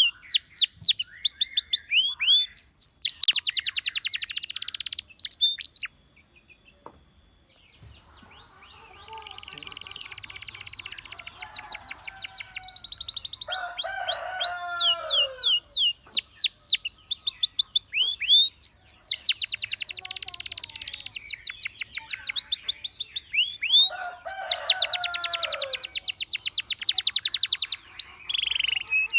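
Domestic canary song: fast trills of rapidly repeated high chirps and rolling notes, with a brief pause about six seconds in and lower gliding phrases mixed in.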